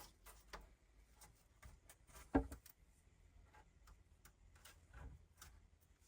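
Faint, scattered ticks and taps, with one louder knock about two and a half seconds in.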